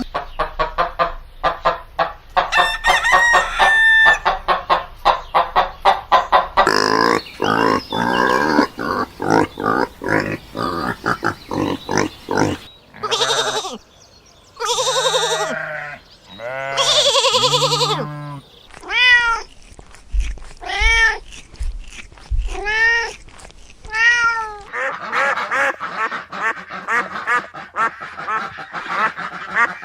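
A sequence of different animal calls, one kind after another. First come dense, rapid calls, then three long pitched calls. After that come six short rising-and-falling calls about a second apart, and near the end a busy, overlapping chatter.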